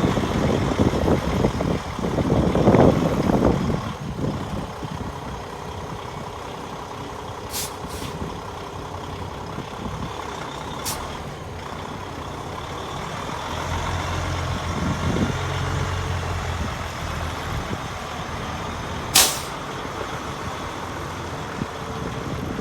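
Kenworth T660 truck tractor's diesel engine running, its note rising for a few seconds past the middle. Several short, sharp hisses of air release, the loudest near the end.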